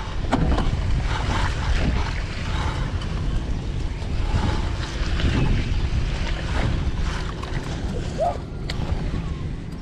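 Wind buffeting the microphone of a camera on a moving bicycle, a heavy unsteady low rumble, over city street traffic noise. A short squeak comes about eight seconds in.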